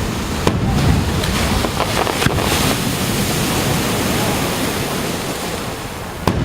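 Sea surf washing onto the beach, with gusts of wind buffeting the microphone and a few short clicks.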